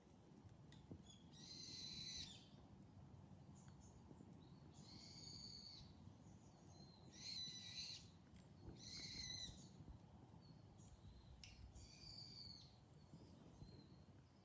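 A bird calling five times, each high-pitched call lasting about a second, over a few faint crackles from a wood campfire.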